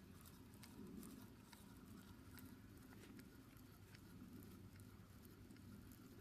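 Near silence: a faint steady low hum with scattered light ticks at irregular intervals.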